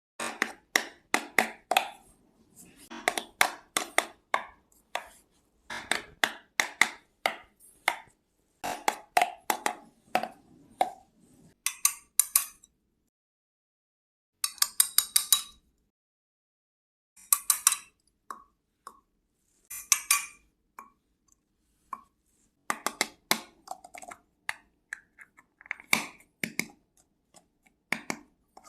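Tiny toy kitchen pieces being handled and set down, in quick runs of sharp clicks, taps and light clinks, broken by a few short silent gaps.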